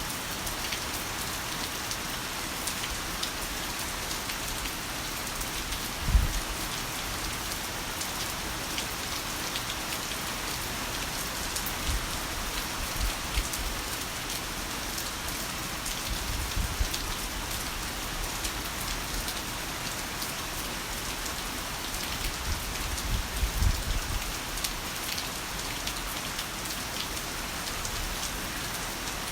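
Heavy rain falling steadily, a dense even hiss of drops. A few brief low thumps rise out of it, the loudest about six seconds in and a cluster near the end.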